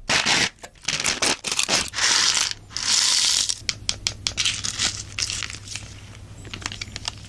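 Crinkly plastic or foil packaging being torn open and crumpled close to the microphone, with several longer tearing rasps among many sharp crackles. It tails off to scattered quieter crackles in the last couple of seconds.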